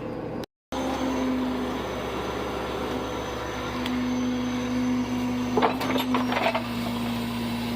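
Truck engine idling steadily with a low, even hum, broken by a short gap near the start; a brief burst of sound comes about six seconds in.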